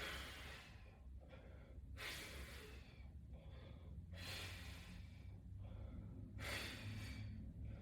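A man breathing hard from exertion, with deep breaths coming and going about every two seconds.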